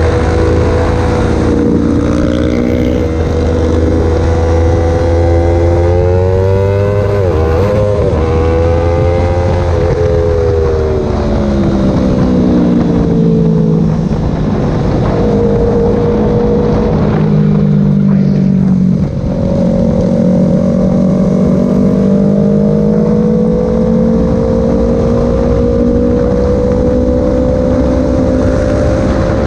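Yamaha R3 parallel-twin engine with a full aftermarket exhaust, heard from the rider's seat under way, its pitch rising and falling with the throttle. The pitch drops about ten seconds in and climbs steadily again toward the end, with a second engine heard alongside through the middle.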